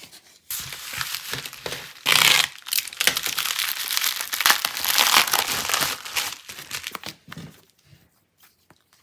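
Orange plastic bubble mailer crinkling as it is opened and the sticker sheets are pulled out. The crinkling is loudest about two seconds in and dies away near the end.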